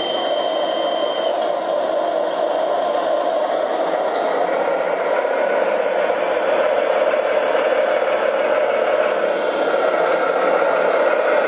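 Radio-controlled scale construction machine running: a steady mechanical whir with rattling, with a thin high whine over the first second or so.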